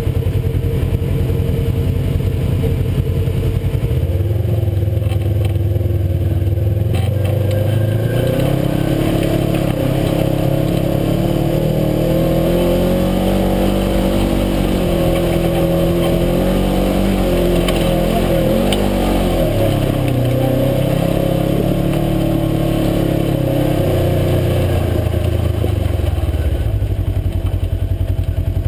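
UTV engine under way: its pitch climbs as it accelerates about four seconds in, rises and falls with the throttle, then drops back near the end.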